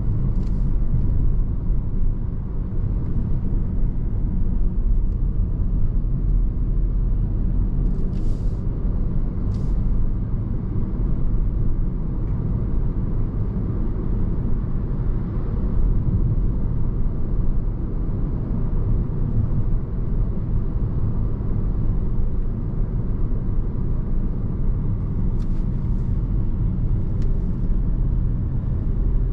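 Steady low road and engine rumble of a car heard from inside the cabin while driving, with a few faint short clicks or ticks near the middle and towards the end.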